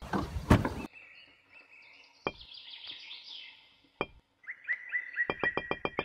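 Birds chirping, with a loud rustling thump at the very start and two sharp clicks a couple of seconds apart. Near the end a fast, even clicking sets in, several clicks a second.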